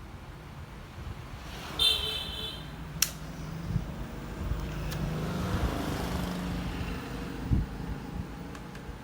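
A road vehicle passing by, its sound swelling and fading over about four seconds. A short high beep comes about two seconds in, and a sharp click about a second later.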